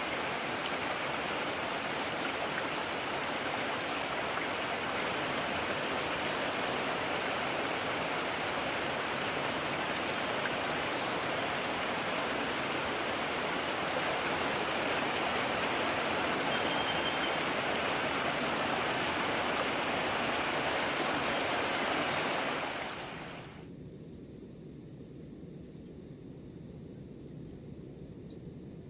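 Mountain stream rushing steadily, which cuts off about three-quarters of the way through, leaving quieter ambience with faint, short high chirps.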